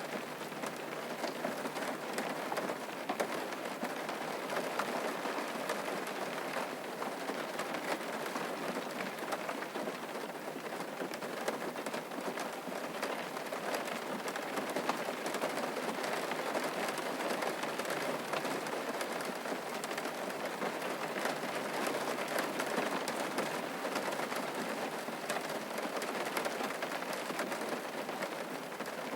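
Steady rain falling, a continuous patter with many small drop ticks.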